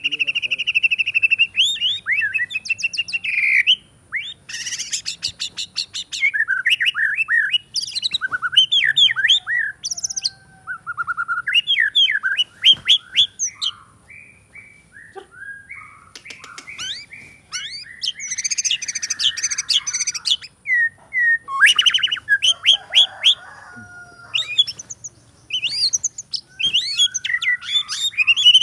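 White-rumped shama singing a long, varied song of rapid trills, sweeping whistled notes and harsher chattering phrases, broken by short pauses, with mimicked phrases of other songbirds worked in.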